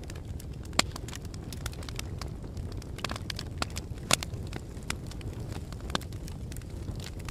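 Fire crackling: a steady low rumble of burning with frequent sharp pops and snaps scattered through it, the loudest about a second in and again about four seconds in.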